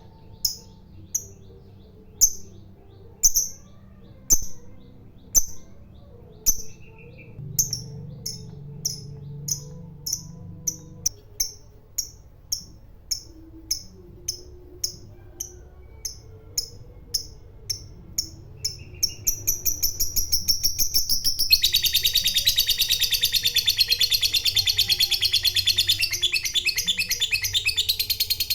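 A fighter-type lovebird's shrill chirps, at first about one a second, coming faster and faster until, about twenty seconds in, they run together into a long, fast, rattling chatter: the lovebird's long "ngekek".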